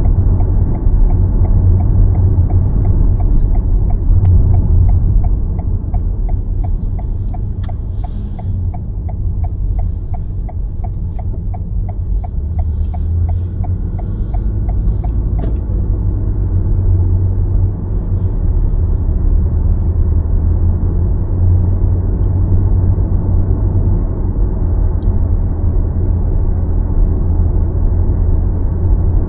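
Car cabin road rumble from tyres and engine while driving through city streets, with the turn-signal indicator ticking steadily about two to three times a second until it stops about halfway through.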